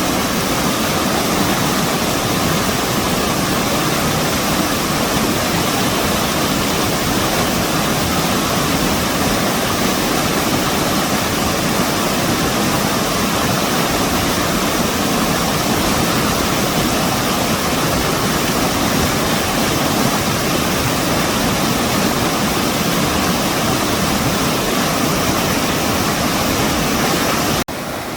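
Valley stream swollen by heavy rain, its current rushing loudly and steadily over rocks. The level drops suddenly just before the end.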